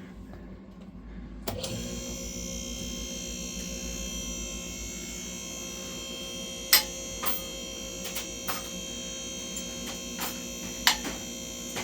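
Electric hydraulic pump motor of a vehicle hoist running steadily as it raises a car, starting about a second and a half in, with a few sharp clicks now and then.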